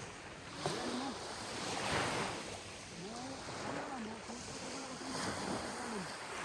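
Sea waves washing onto the shore, with a surge about two seconds in, over a steady rush of surf.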